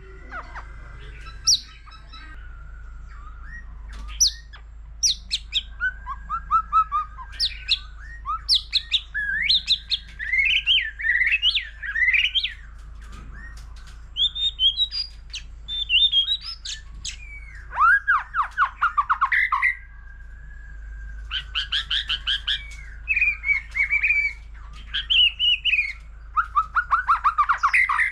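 White-rumped shama singing a long, varied song of whistled phrases, rapid trills and fast chattering runs in quick succession, with short pauses between phrases.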